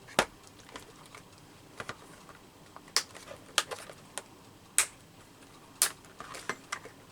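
Irregular sharp clicks and taps of small craft supplies being handled and set down on a desk, about a dozen over the stretch.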